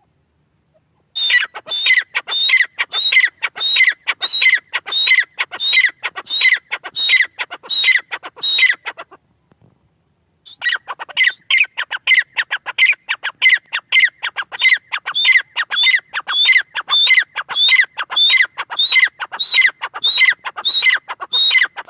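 Francolin (teetar) calling: a long run of sharp, evenly repeated call notes, about two a second, with a short pause near the middle before the calls start again.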